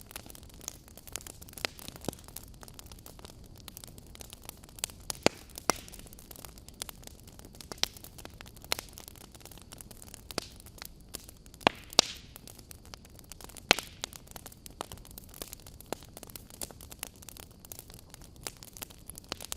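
Wood campfire burning, logs crackling with frequent irregular sharp pops over a soft steady hiss.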